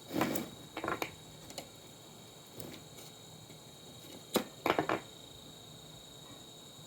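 A scattering of light clicks and knocks in small clusters, the loudest at the start and about four and a half seconds in, from parts of an old monitor being handled during a teardown, over a steady faint high-pitched hiss.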